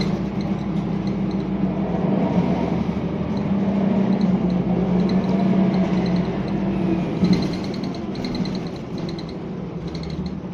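Scania L94UB bus's diesel engine running steadily, with bursts of rapid high ticking or rattling coming and going. The engine sound eases off in the last few seconds.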